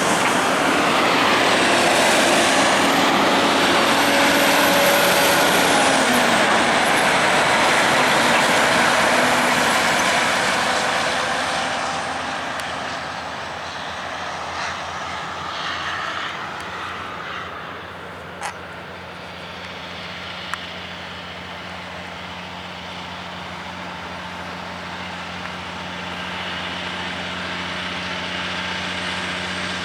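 Heavy haulage trucks of an oversize convoy driving past, loud engine and tyre noise that dies down after about ten seconds into a quieter, steady engine drone.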